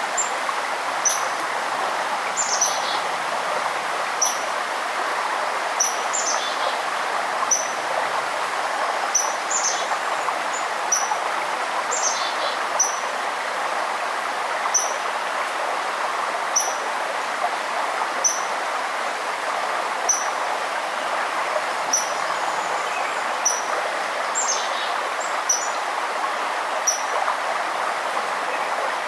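Steady rush of flowing forest stream water, with birds calling over it: a short high chirp repeated about once a second, and every few seconds a quick falling note.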